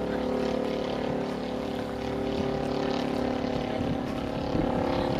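An engine running steadily at a constant pitch, an even drone with no change in speed.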